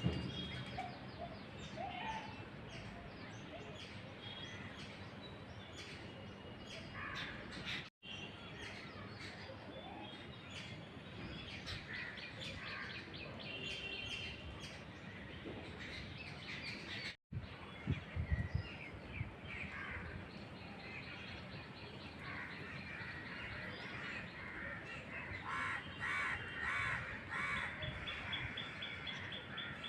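Several birds chirping and calling over a steady background hiss, with many short repeated notes. The sound drops out briefly twice, at about 8 and 17 seconds, where the recording is cut.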